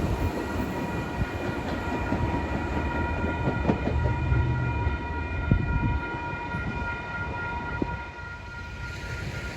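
A train rolling past with a heavy rumble and several steady high tones held over it, fading somewhat near the end.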